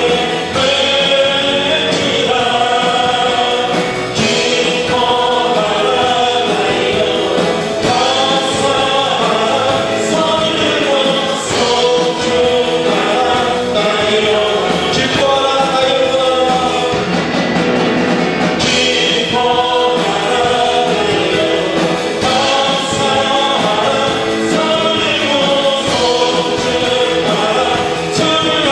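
Congregation and worship band singing a Korean praise song together, with instrumental accompaniment.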